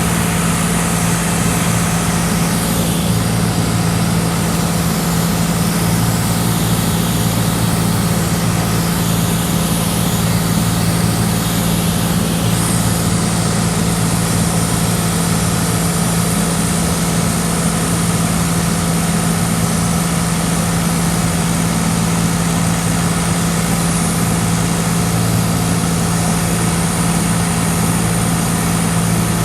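Cessna 182's piston engine and propeller droning steadily, heard from inside the cabin, with an even rush of air noise over it.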